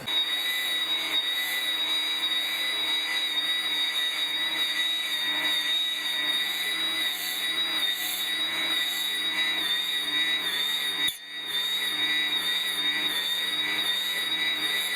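Electric brush cutter running with a steady high-pitched whine, its motor dropping out briefly about eleven seconds in.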